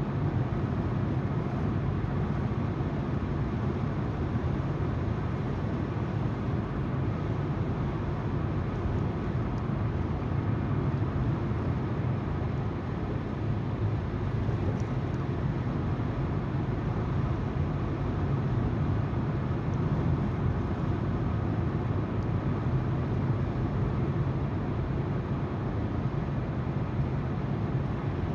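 Car driving at steady speed: a constant rush of tyres on the road over a low engine hum.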